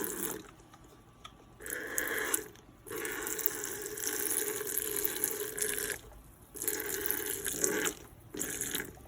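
Liquid, lemon juice, pouring into a container in about four spurts that start and stop, the longest lasting about three seconds.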